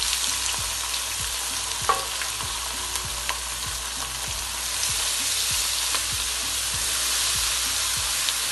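Ground spices and garlic-ginger paste sizzling in hot oil with fried onions in a nonstick pan, with a silicone spatula stirring and tapping against the pan. One sharper tap about two seconds in.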